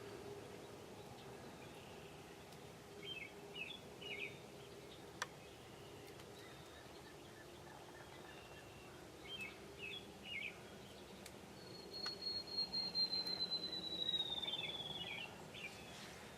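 Songbirds singing outdoors: two short bursts of quick high chirps, then one long whistle that slowly falls in pitch, with more chirps at its tail. A faint steady low hum sits underneath.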